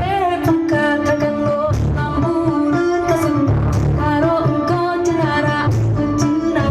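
Loud music played through the Blizzard Audio sound system: a melodic singing voice over heavy, pulsing bass.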